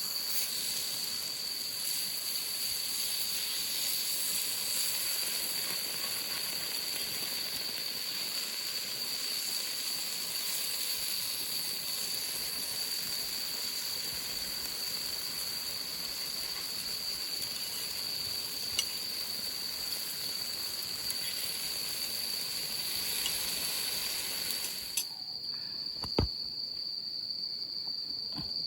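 A steady hiss with a continuous high insect trill beneath it, typical of crickets. The hiss cuts off abruptly near the end, leaving the trill, and a single sharp knock follows.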